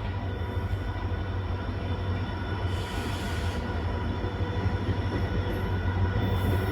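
Express train pulling into a station: a steady low hum with a set of steady tones, slowly growing louder as it approaches, with a short high hiss about three seconds in and again near the end.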